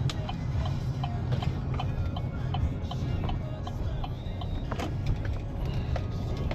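Steady low rumble of a pickup truck driving, engine and road noise heard from inside the cab.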